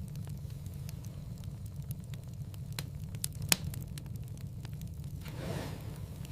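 Wood fire crackling in a fireplace: a steady low rumble of burning with frequent small crackles and one loud pop about halfway through. A soft whoosh of flame rises near the end.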